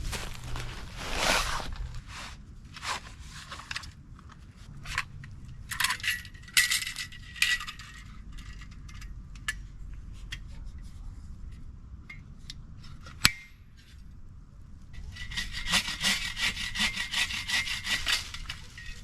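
Hand saw cutting wood in quick back-and-forth strokes: a short bout about six seconds in and a longer one from about fifteen seconds, with a single sharp knock in between.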